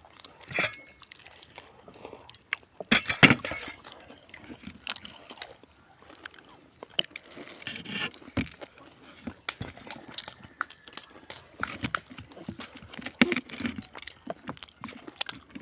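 A person eating crisp snack food close to the microphone: irregular crunchy bites and chewing with small mouth clicks, the loudest crunch about three seconds in.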